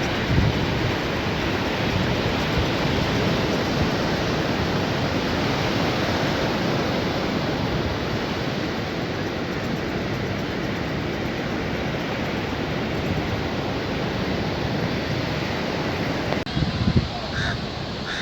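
Steady rush of sea surf breaking on a beach. Near the end the sound changes abruptly and a couple of short calls are heard.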